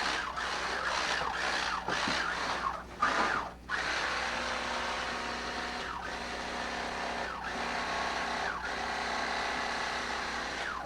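Chainsaw running and being revved several times, its engine note rising and falling back again and again.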